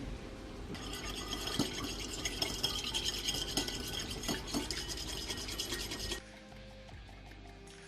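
A utensil stirring and scraping around a small bowl, mixing food colouring paste into milk: a busy scratchy rubbing that stops abruptly about six seconds in.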